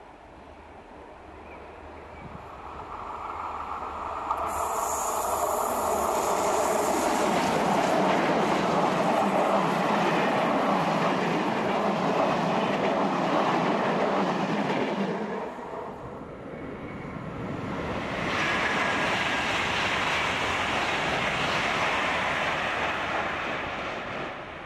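A locomotive-hauled passenger train passes close by. The sound of its wheels on the rails builds over the first few seconds and holds loud, with a high thin whine from about four seconds in. It dips briefly about two-thirds of the way through, swells again, then drops off sharply just at the end.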